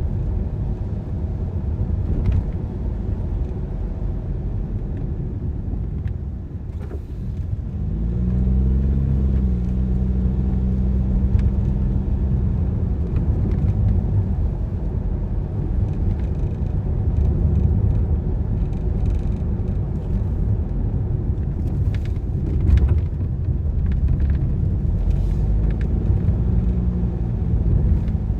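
Car driving on the road: a steady low rumble of engine and tyres. The engine note rises and holds as the car pulls away and accelerates about eight seconds in, and again near the end.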